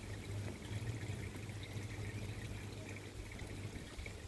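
Water steadily trickling and splashing from a koi pond's filter return, with a low steady hum underneath.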